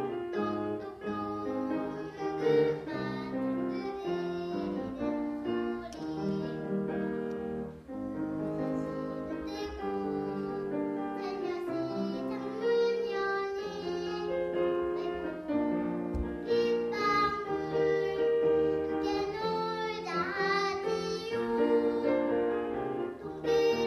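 A young child singing a Korean children's song (dongyo) over piano accompaniment.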